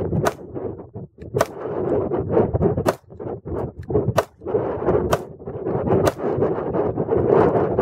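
Glock 21 pistol firing .45 ACP rounds: six sharp shots at roughly one-second intervals, with a steady rushing noise between them.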